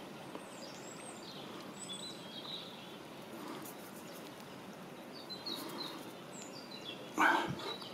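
Faint, scattered bird chirps over quiet outdoor background noise, with one short, louder noise near the end.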